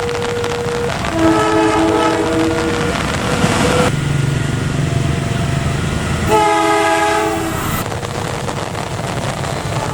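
Train horn sounding two chord blasts, the first about a second in and lasting nearly two seconds, the second shorter near the middle, over the steady rumble of the running train.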